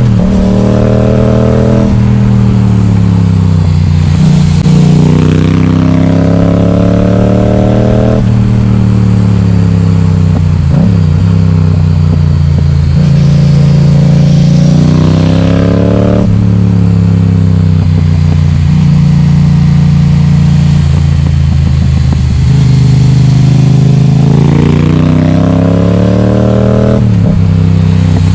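Yamaha XSR700's 689 cc parallel-twin engine, breathing through an Akrapovic exhaust with its baffle removed, loud and harsh. It pulls up through the revs and drops back again and again as the bike accelerates and eases off.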